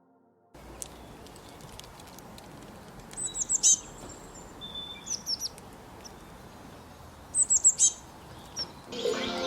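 Wild songbirds singing over a faint steady outdoor hiss, with groups of quick, high, down-slurred chirps about three seconds in and again about seven seconds in. Soft music fades in near the end.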